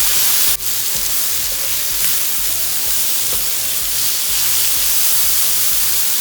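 Chicken with onion and bell pepper sizzling on a hot griddle, a steady frying hiss that dips sharply for a moment about half a second in, with background music underneath.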